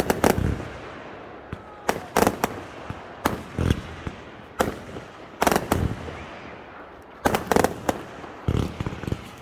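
Fireworks display going off: sharp bangs and crackling bursts in irregular clusters every second or so, each dying away before the next.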